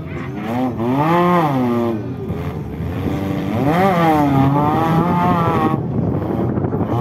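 Off-road 4x4 vehicle's engine revving, its pitch rising and falling twice.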